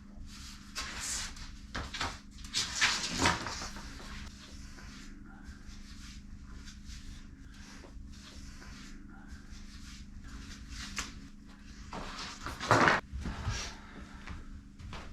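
Scattered knocks and clunks, with a louder cluster near the end, over a steady low hum.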